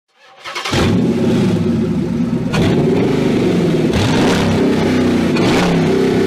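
BMW Z4 3.0i's straight-six engine revving and accelerating, starting abruptly about half a second in, its pitch dropping and climbing again about three times.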